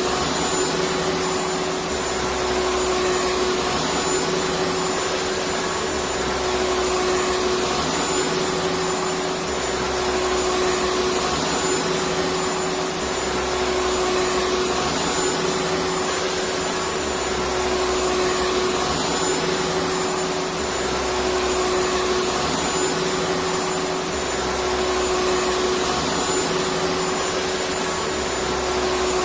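Vacuum cleaner running steadily: an even rushing of air with a steady motor whine and a low hum that comes and goes every few seconds.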